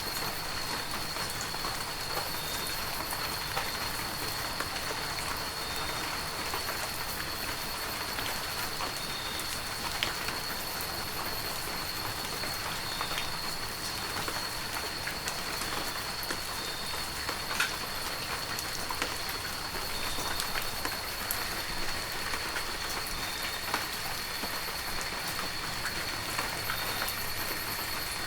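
Heavy rain falling steadily, with individual drops ticking sharply here and there. A thin, steady high-pitched tone runs underneath the whole time.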